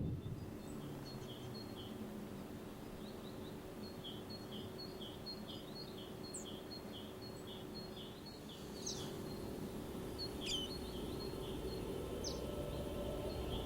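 Birds calling: a run of short high notes repeated about twice a second, then from about the middle several sharp, high whistled notes that slide in pitch.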